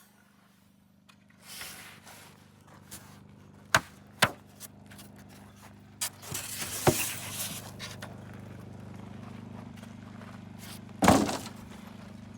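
A few scattered sharp knocks and taps, the loudest about a second before the end, over a low steady hum that comes in about halfway through.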